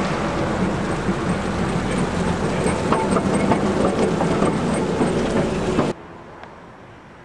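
Vintage electric tram running on street track, wheels rattling and clicking over the rails, with a faint squeal now and then. The sound cuts off suddenly about six seconds in, leaving a much quieter background.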